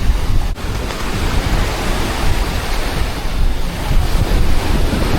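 Wind buffeting the microphone outdoors: a steady rushing noise with a heavy, fluttering rumble, dipping briefly about half a second in.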